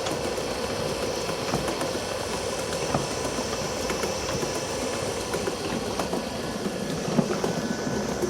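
Restored antique wooden-tub washing machine running, its agitator mechanism clattering steadily at high speed with scattered clicks, driven by a high-speed electric motor.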